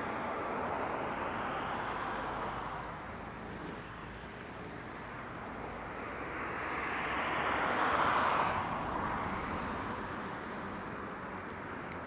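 Road traffic: vehicles passing by, a first swell near the start and a louder one that builds and fades about eight seconds in.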